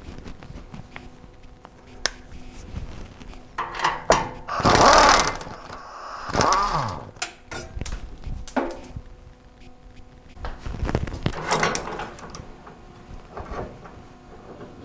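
Metal knocks, clanks and scraping from hand work on a pickup's old exhaust system as it is worked loose: scattered short knocks, with longer scraping rattles about four and a half, six and a half and eleven and a half seconds in. A faint steady high whine stops about ten seconds in.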